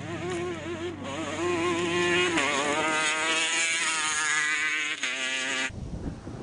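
Engine of a rally motorbike or quad revving hard, its high buzzing pitch climbing and wavering, then cut off abruptly near the end, leaving wind noise on the microphone.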